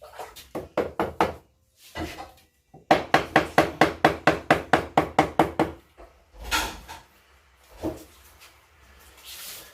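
Rapid tapping, about seven knocks a second for nearly three seconds, with scattered single knocks before and after: a refractory firebrick being tapped down into its bed of refractory mortar.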